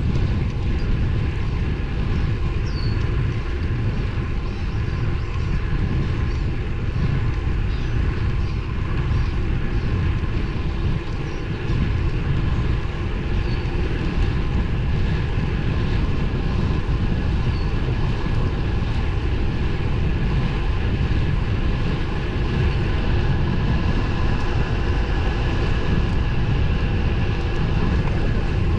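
Steady wind rush on the microphone with road noise from a road bike riding along at speed; the rumble is loudest in the low range, with a faint steady whine above it.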